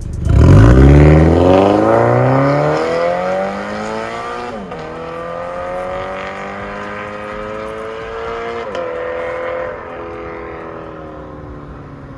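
Toyota 86's 2.0-litre flat-four engine through a valved MS-R cat-back exhaust, accelerating hard from the start. The revs climb for about four seconds, drop sharply as the automatic gearbox shifts up, then climb again to a second upshift near nine seconds and settle into a steadier drone.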